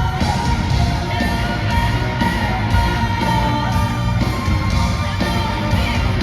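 Live rock band with orchestra playing a gothic rock song, with a steady drum and cymbal beat of about two strokes a second under the full band.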